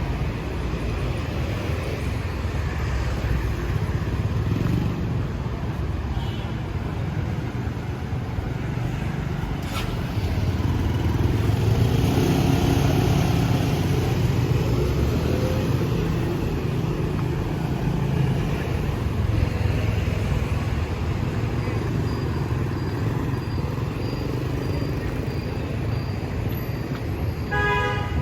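City street traffic, mostly motorbikes, passing steadily. A louder pass comes about ten seconds in, and there is a short beep near the end.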